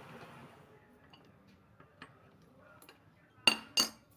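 A few faint ticks, then two sharp metallic clinks about a third of a second apart near the end, each ringing briefly, as metal tools or bicycle parts knock together.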